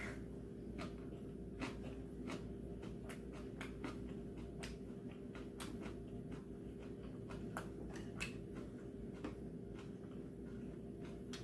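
Eating sounds: scattered small clicks and smacks at an uneven pace over a steady low hum.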